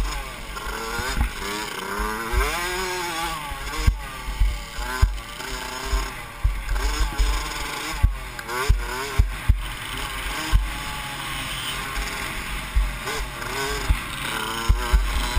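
Mini motocross bike engine revving up and down as the rider accelerates and backs off around the dirt track, heard from the rider's onboard camera. Frequent short low thumps cut through the engine.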